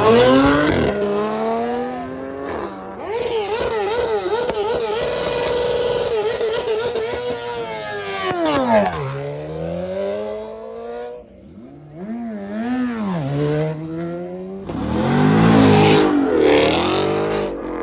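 Car engines revving and accelerating as cars pull away, the engine pitch climbing and dropping several times. A wavering stretch of quick blips comes in the first half, the pitch falls away about halfway through, and a fresh hard rise follows near the end.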